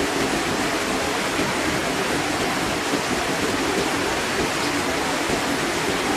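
Water falling steadily from a small built waterfall and splashing into a pond, a continuous even rush.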